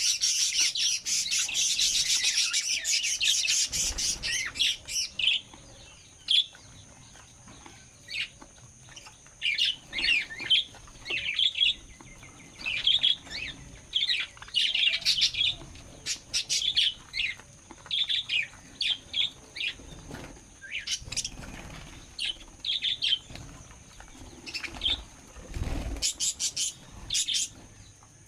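A flock of small pet parrots chirping and chattering: a dense, continuous chatter for the first few seconds, then broken into short bursts of chirps every second or two.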